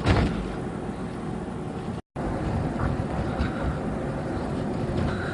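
Steady low rumble of a car on the move, heard from inside, with a sharp thump right at the start; the sound cuts out completely for a moment about two seconds in.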